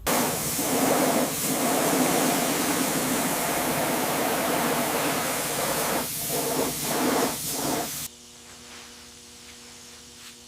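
Loud, steady hiss of a high-pressure spray or air jet, with a few brief dips, cutting off suddenly about eight seconds in; a faint steady hum remains after it.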